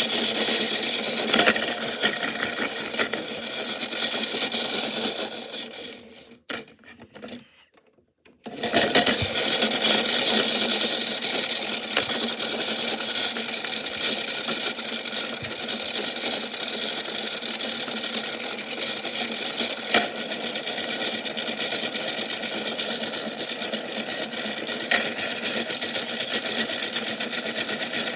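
Washing machine running with a steady mechanical whine and hum, with a few sharp knocks. It cuts out for about two seconds about a quarter of the way in, then starts up again.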